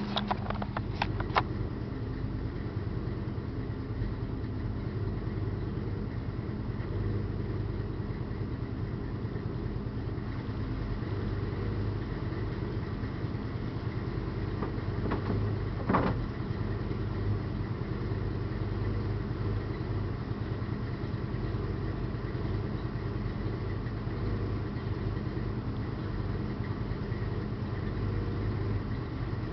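A 1967 Dodge Dart's 383 stroker V8 idling steadily, with a few light knocks in the first second or so and a brief sharp noise about halfway through.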